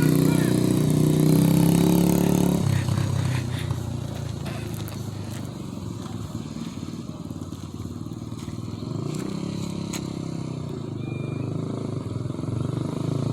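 Coolster 125cc dirt bike's single-cylinder four-stroke engine running loudly, then dropping abruptly to a quieter note about two and a half seconds in, which rises and falls after that.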